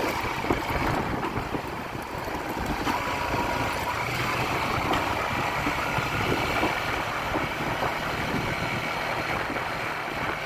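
A vehicle running steadily while driving down an unpaved dirt road: engine sound mixed with the rumble of tyres on the loose, damp surface.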